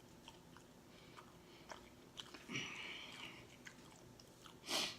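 A person chewing a mouthful of smoked sausage: faint wet mouth clicks scattered throughout, with a louder, short sudden noise near the end.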